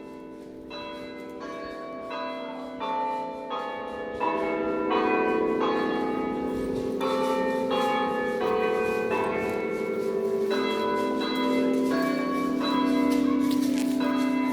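Church bells of the town clock chiming the noon hour: a run of bell strikes at different pitches, about two a second, their ringing overlapping and building into a sustained hum. The chimes grow louder about four seconds in.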